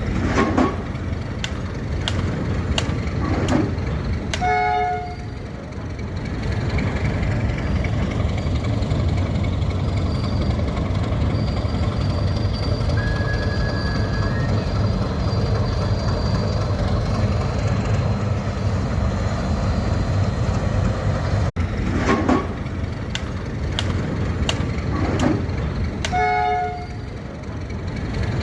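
Goods train rolling past with a steady low rumble and sharp wheel clicks over the rail joints. A short horn blast sounds about four and a half seconds in and again near the end.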